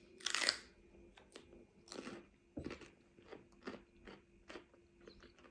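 Close-miked bite into a crunchy celery stick just after the start, then steady crunchy chewing, about two to three crunches a second.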